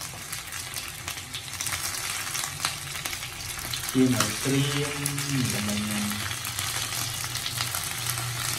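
Slices of rice cake sizzling in oil in a nonstick frying pan, with metal tongs clicking against the pan as the pieces are turned. A brief pitched hum comes in about halfway through.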